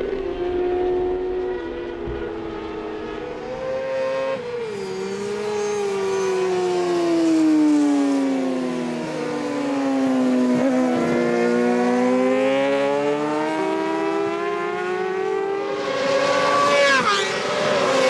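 Superbike racing motorcycles running at speed on track, engine notes rising and falling in pitch as they go by. Near the end several bikes pass in quick succession, each dropping in pitch.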